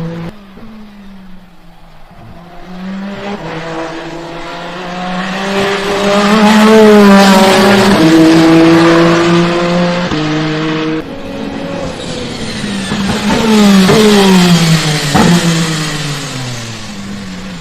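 Peugeot 9X8 hypercar's twin-turbo V6 at racing speed. The note climbs to its loudest with a drop in pitch at each gear change, then falls in a series of downward steps over the last few seconds.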